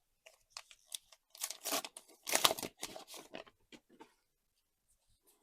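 A trading-card booster pack wrapper being torn open and crinkled, with scattered crackles and two louder rasping tears about one and a half and two and a half seconds in.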